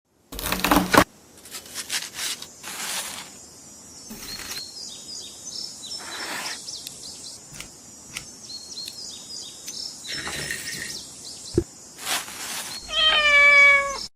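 A cat meowing once, long and drawn out, near the end, after a loud rustle and scattered handling noises with small high chirps.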